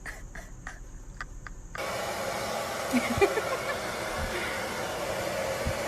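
A few sharp clicks, then about two seconds in an abrupt switch to a steady rushing noise, with a few faint knocks in it.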